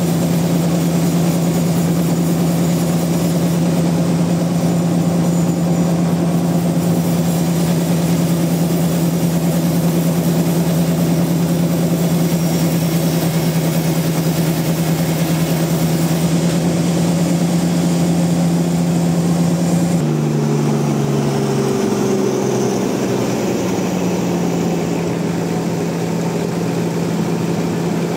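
Sawmill machinery engine running steadily; about two-thirds of the way through its note drops in steps and then recovers, as under a change in load.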